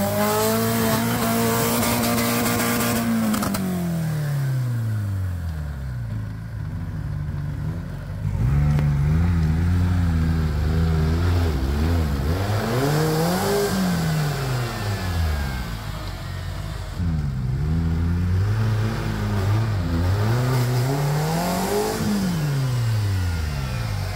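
Off-road 4x4 vehicle's engine held at high revs, dropping away about three seconds in. It is then revved up and let back down three more times as the vehicle works through rough terrain.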